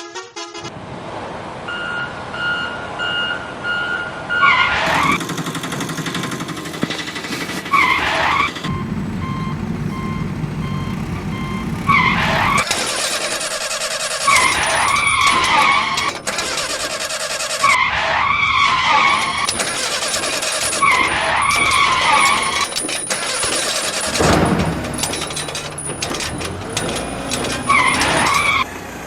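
Vehicle sound effects: an engine running throughout, with a run of short even beeps in the first few seconds and about eight short screeching pitch sweeps that dip and rise, spread through the rest.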